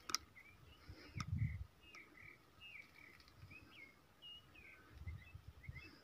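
Small birds chirping faintly in a quick run of short, bending notes from about two seconds in. Early on there are a sharp click or two and a brief low rumble.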